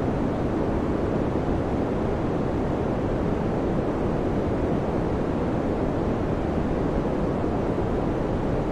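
Electric fan running steadily: an even, low whooshing air noise with no changes.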